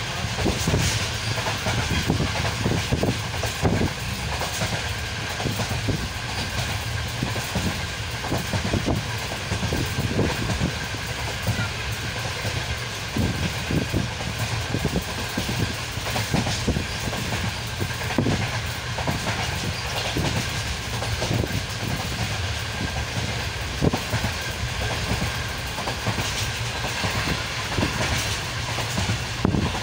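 Pakistan Railways passenger train running at speed, heard from inside a carriage: a steady low rumble and rushing hiss, with frequent irregular clacks of the wheels over the rail joints.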